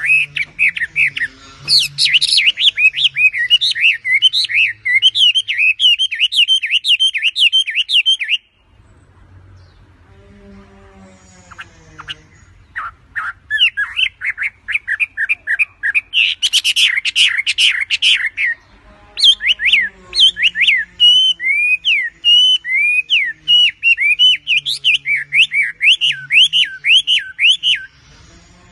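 Chinese hwamei (wambe) singing: long runs of quick notes that glide up and down, in two bouts with a pause of about four seconds between them.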